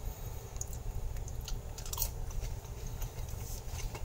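A person chewing a bite of crispy-crusted crescent-roll pretzel, with a few short crunches scattered through, over a low steady hum.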